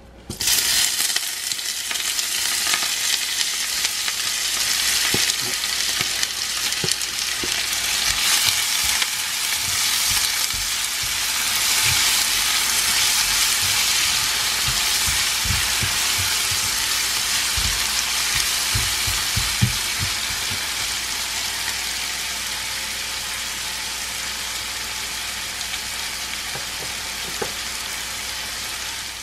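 Chopped onion, chilli, garlic and aromatic leaves sizzling as they hit hot oil in a nonstick wok and are stir-fried for a balado spice mix. The sizzle starts suddenly and eases a little toward the end. Spatula knocks and scrapes on the pan come through the middle.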